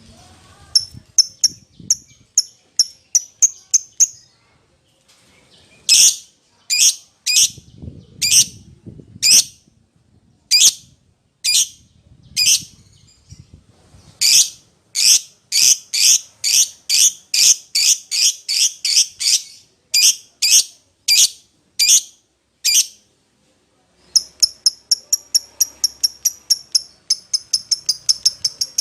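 A lovebird giving shrill, short chirping calls over and over, calling to another lovebird. Some come in fast runs of about three or four a second, others singly and slower, with a couple of short pauses between runs.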